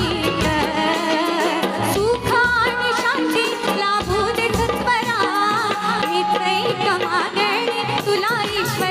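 Marathi folk song for a Konkan jakhadi dance: a singer's melody with wavering, ornamented pitch over steady drum beats.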